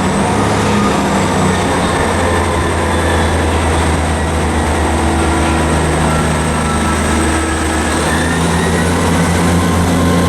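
Train running at the station with a steady low hum and a thin high whine that climbs slightly about eight seconds in.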